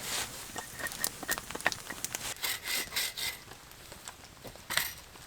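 Dead striped maple wood being worked by hand: scattered sharp crackling snaps, then two short rasping strokes, one in the middle and one near the end.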